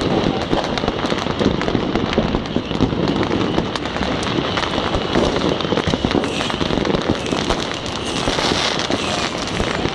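Many fireworks and firecrackers going off at once: a continuous, dense crackle of overlapping pops with no pause.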